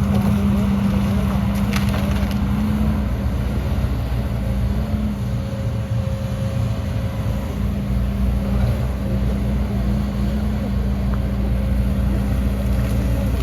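Heavy diesel engine of earthmoving machinery running steadily under load, with a sharp knock or two about two seconds in.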